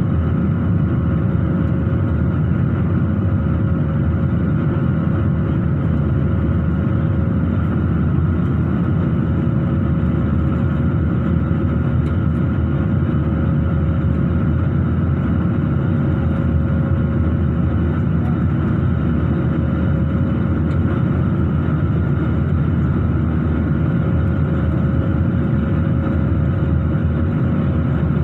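Steady drone of an airliner's engines and airflow heard inside the passenger cabin, unchanging throughout, with a faint steady hum above it.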